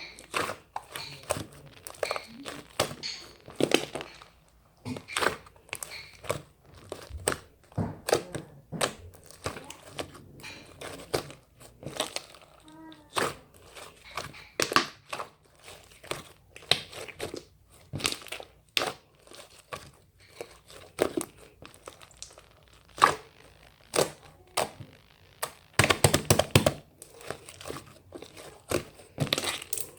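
Firm slime being pressed, squeezed and pulled by hand, giving repeated bursts of crackling, crinkling snaps. The crackles come thickest near the end.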